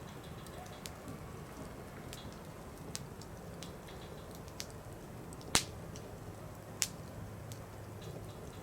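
Firewood burning in a campfire, crackling: scattered small ticks and pops over a low steady hiss, with two sharper snaps about five and a half and seven seconds in, the first the loudest.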